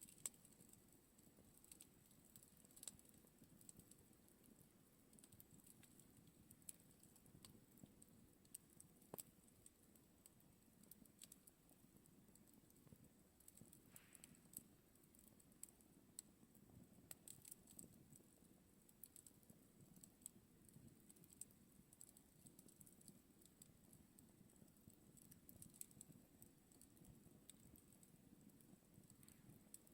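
Campfire burning quietly, with scattered faint crackles and pops over a low, steady rumble.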